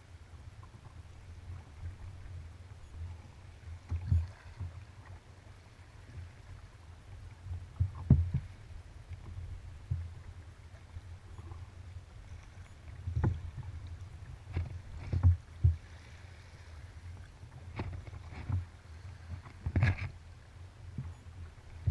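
Kayak on open water: a low rumble of water against the hull with irregular sharp knocks and splashes from the paddle and small waves.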